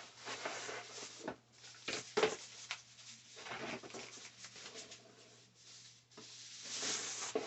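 Packaging being handled and unpacked: rustling and rubbing in several bursts, with a couple of sharp knocks, loudest near the end.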